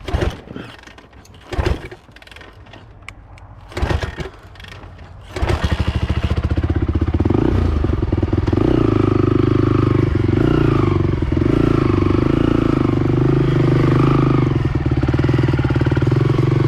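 Honda TRX450R's single-cylinder four-stroke engine being restarted: a few sharp knocks, then about five seconds in it catches and runs steadily with a fast, even beat.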